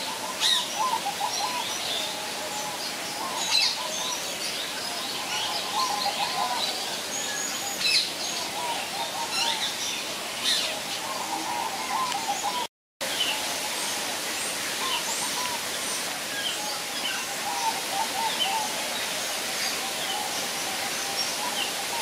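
Several birds calling: short warbling chirp phrases repeating every few seconds, with scattered high, thin chirps over a steady background hiss. The sound briefly cuts out about halfway through.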